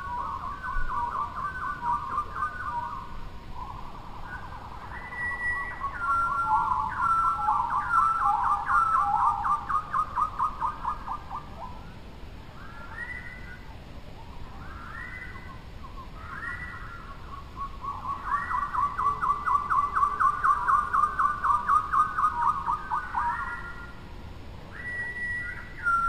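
Bird song: fast runs of clear whistled notes, trilled in long phrases with short upward-sliding calls between. The song is loudest in the first half and again near the end, quieter in between.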